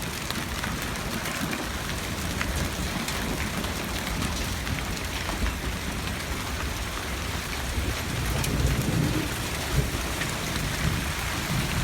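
Hail and rain pelting down steadily, a dense patter with scattered sharp ticks of hailstones striking. The storm is heavy and building.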